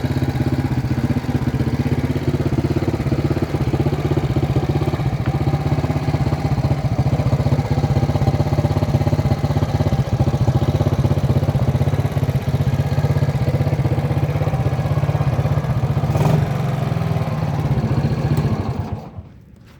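Honda engine fitted in an Ariel Leader motorcycle running at a steady, even speed, then falling away abruptly near the end.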